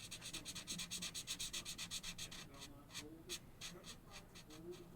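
Felt-tip marker scratching back and forth on paper in quick colouring strokes, about eight a second, slowing to separate single strokes about halfway through.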